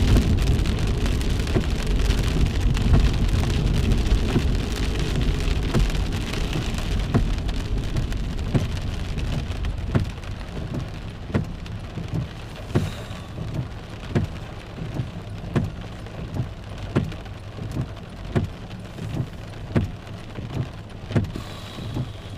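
Heavy rain drumming on a car, with road and tyre noise that fades over the first ten seconds or so as the car slows. Once it is quieter, a regular tick comes through about every two-thirds of a second.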